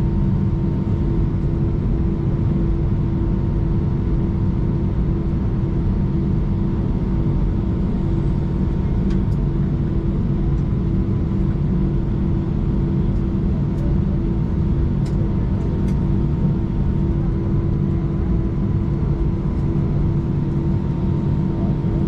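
Airbus A319 cabin noise while taxiing: the engines at idle with the air conditioning, a steady low rumble carrying a constant hum.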